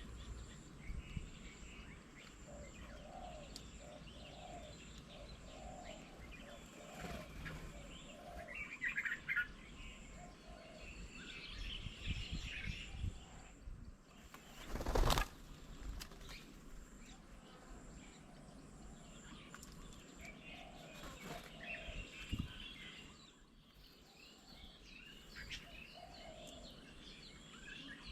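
Several birds calling and chirping around a garden bird table, with a row of low repeated notes early on. A brief loud rushing burst sounds about halfway through.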